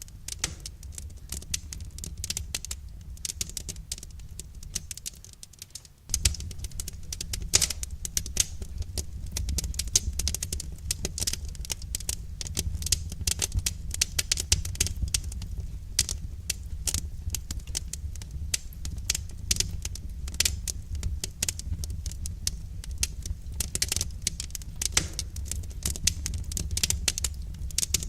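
Wood fire crackling, with many irregular sharp pops and snaps over a low steady rumble. The rumble dies away about five seconds in and comes back suddenly a second later.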